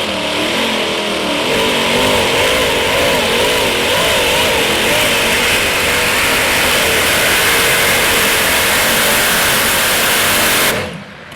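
Modified pulling tractor's engines running at full power under load, loud and steady, with the pitch wavering up and down. The sound drops away suddenly near the end.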